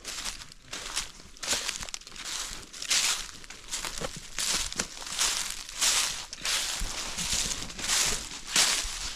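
Footsteps crunching through dry leaves and brush at a steady walking pace, with twigs and undergrowth rustling against the walker.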